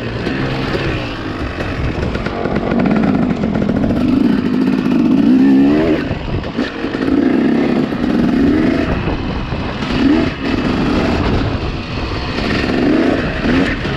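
Dirt bike engine being ridden, revving up and falling back over and over as the rider works the throttle and gears.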